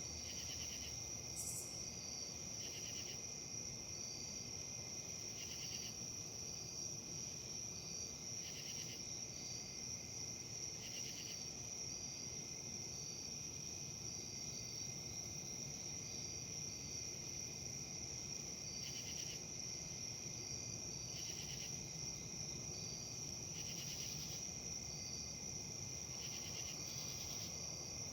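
Insects, crickets by the sound, chirping steadily: a continuous high trill with short chirps repeating about twice a second and brief pulsing calls every few seconds, over a faint low background noise.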